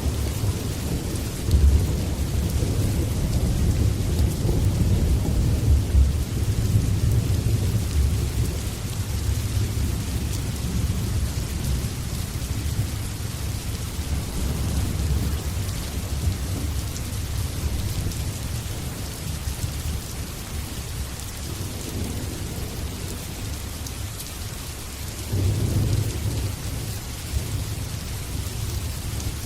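Steady rain with rolling thunder: low rumbling through the first ten seconds or so that then dies down, and swells again briefly near the end.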